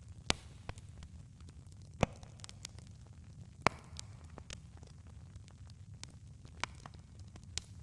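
Campfire burning: a steady low rumble with sharp, irregular pops and snaps from the wood. The loudest snaps come just after the start, about two seconds in, and just before four seconds.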